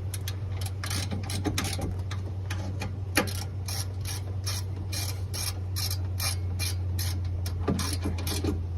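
Hand ratchet wrench clicking steadily, a few clicks a second, as a bolt on the radiator fan assembly is turned, with one sharper click about three seconds in, over a steady low hum.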